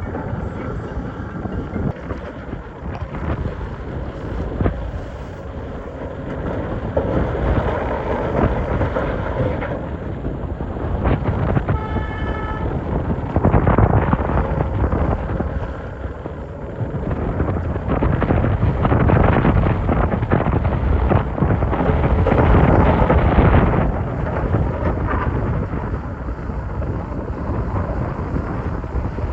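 Excavator digging in rock: the engine runs under load while the bucket scrapes and rocks knock and clatter, swelling louder several times as it digs. There is a brief high whine about twelve seconds in.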